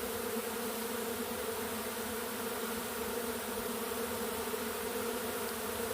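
A swarm of thousands of honey bees in flight, making a steady, even buzz.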